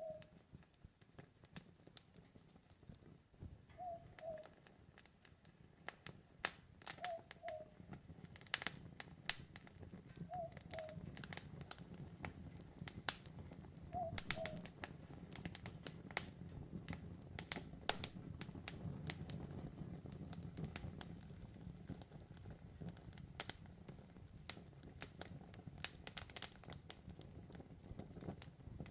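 Campfire crackling with frequent sharp pops, and a low rumble of the burning fire that grows from about eight seconds in. An owl hoots a short two-note call every three to four seconds through the first half.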